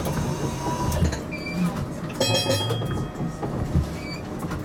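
Low rumble inside a GTL8 tram, with a rapid ringing for about half a second around the middle and two short electronic beeps, one early and one near the end.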